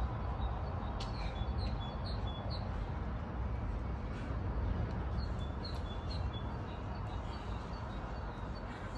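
A small bird chirping in two short runs of quick, high notes, about a second in and again around five seconds in, over a steady low outdoor rumble.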